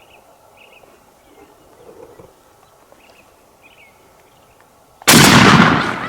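Faint short bird calls over a quiet background, then about five seconds in a single very loud shotgun shot that echoes away over about a second.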